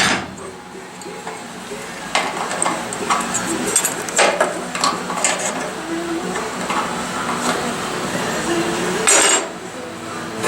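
Metal clinking and tapping at irregular intervals from sheet-metal repair work on a car body, over a steady hum. Two short, loud noisy bursts stand out, one at the start and one about 9 seconds in.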